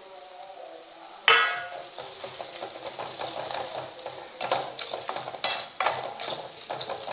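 A metal spoon stirring and scraping masala in a kadai: one loud ringing clang against the pan about a second in, then repeated irregular clinks and scrapes.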